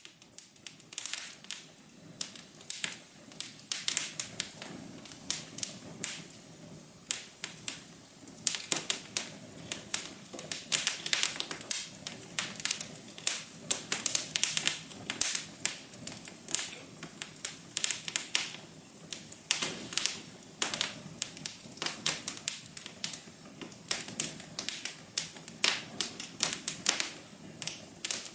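Wood fire crackling in a fireplace: a dense, irregular run of sharp pops and snaps over a soft low hum.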